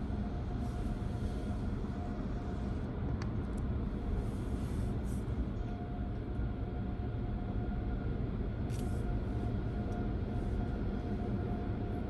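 Automated tunnel car wash heard from inside the car: a steady low rumble of machinery under a constant hum, with short hisses of water spray a few times.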